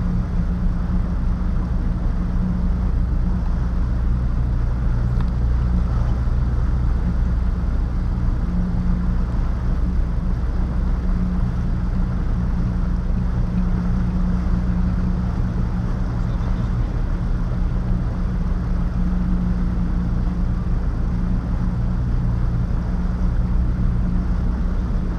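Boat engine running steadily: a constant low, even drone with a wash of water and wind noise over it.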